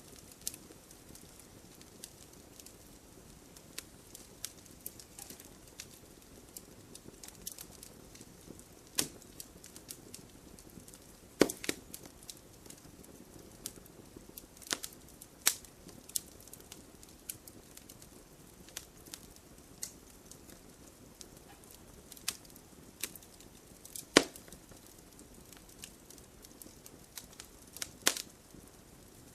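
Campfire crackling: irregular sharp pops and snaps of burning wood over a soft steady hiss of flame, with louder pops about eleven seconds in and again near twenty-four seconds.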